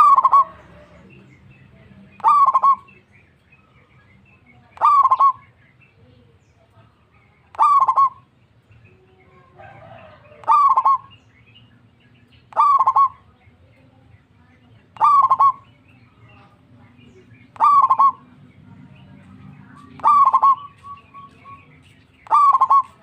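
Zebra dove (perkutut) giving a short call over and over, about ten times, roughly every two and a half seconds, as a lure to draw other doves into answering.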